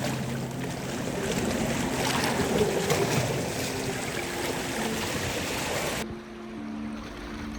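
Sea water sloshing and lapping against the rock walls of a sea cave, with small splashes and drips. About six seconds in it cuts off abruptly to something much quieter with a few soft sustained tones.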